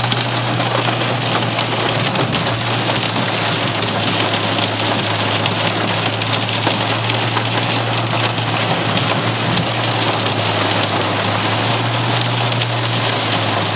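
Heavy rain drumming on the roof and body of a car, heard from inside the cabin as a dense, steady patter of countless drop hits. Underneath runs the car's engine as a low steady hum.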